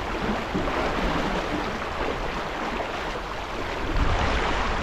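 Water rushing along a racing sailing yacht's hull, with wind buffeting the microphone; the rush swells louder about four seconds in.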